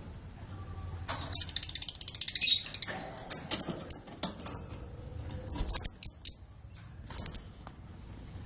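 Canaries chirping: a fast twittering run about a second in, then clusters of short high chirps.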